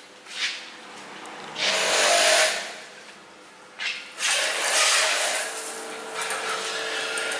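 Two bursts of loud hissing spray: a short one about one and a half seconds in, then a longer steady one from about four seconds on.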